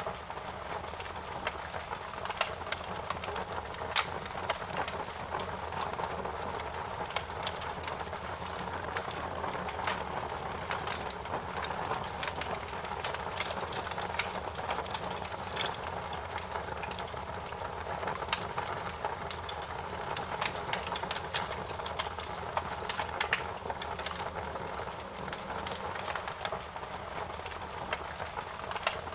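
Fire crackling, with many irregular sharp pops and snaps over a steady hiss.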